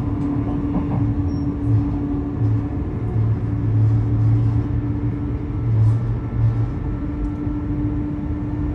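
Train running, a steady low hum over a constant rumble.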